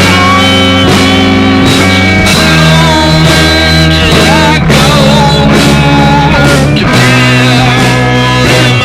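Rock music with guitar: held chords over a steady bass, changing every second or two, with a wavering lead line above them.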